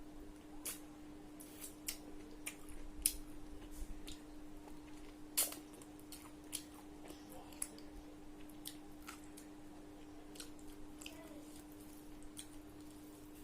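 Close-miked eating sounds: irregular wet mouth clicks and chewing of food, the sharpest smacks about three and five and a half seconds in, over a steady low hum.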